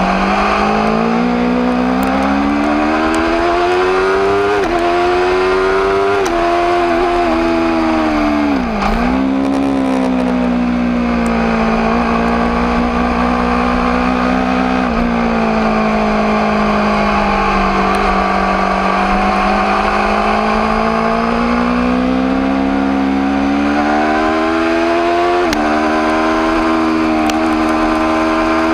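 Aprilia RSV4 APRC's V4 engine pulling under way, its pitch climbing with the revs and stepping down at gear changes, about five and six seconds in, around fifteen seconds and again near twenty-six seconds. A short sharp dip in revs comes about nine seconds in.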